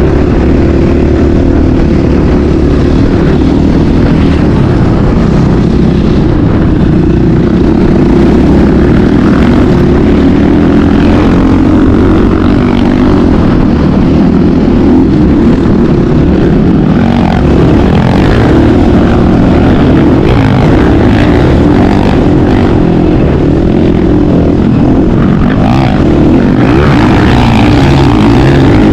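Motocross bike engine running loud and close, its pitch wavering up and down as the revs change.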